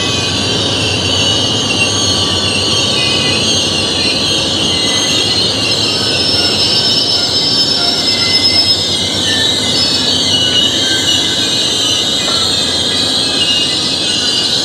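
Passenger cars of the Ringling Bros. and Barnum & Bailey circus train rolling past, a steady loud rumble of wheels on rail, with thin high-pitched wheel squeal that grows stronger about halfway through.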